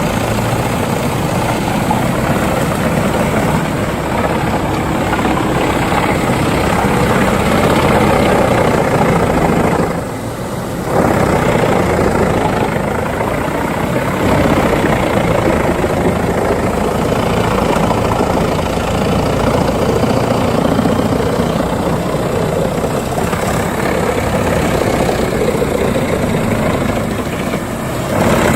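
Heavy wood chipper machines running, a loud, steady engine and machine noise, with a brief drop in level about ten seconds in and again near the end.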